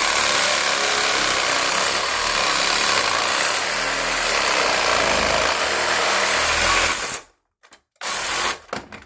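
Power tool cutting through rusted toilet closet bolts, a steady high-pitched cutting noise that stops suddenly about seven seconds in, with a brief short burst about a second later.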